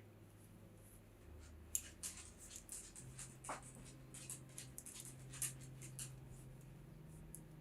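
ChiaoGoo Red Lace stainless steel circular knitting needles clicking softly and irregularly as stitches are worked, several clicks a second, starting a little under two seconds in.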